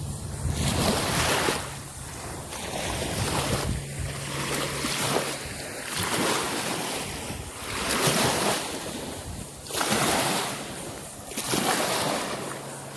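Small surf breaking and washing up a sandy beach, swelling and falling about every two seconds, with some wind on the microphone.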